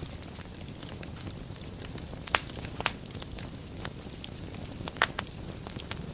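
Fire burning in a fireplace: a steady low rumble with scattered sharp crackles and pops, the loudest ones a little over two seconds in, just under three seconds in and about five seconds in.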